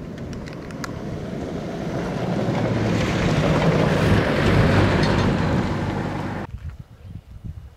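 Mercedes 4x4 truck driving on a gravel road, its engine hum and tyre rush growing steadily louder, then cutting off suddenly about six and a half seconds in.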